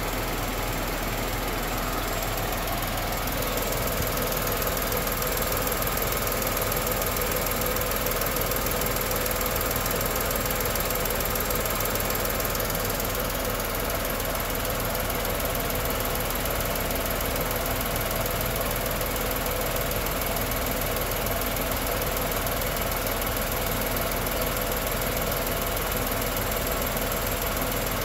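Tata Nexon's 1.2-litre turbocharged three-cylinder petrol engine idling steadily, heard from over the open engine bay, with the air-conditioning compressor switched on and loading it.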